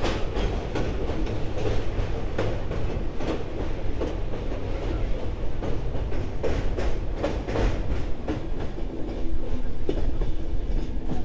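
Passenger train coaches running on the rails: a steady low rumble with wheels clacking irregularly over the rail joints.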